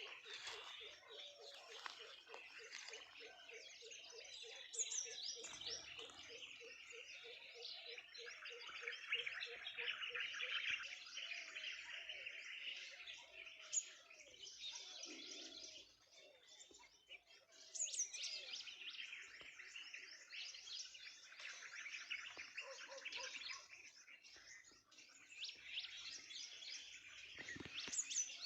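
A morning chorus of many birds chirping and calling over one another. A low pulsing call repeats about four times a second through the first ten seconds.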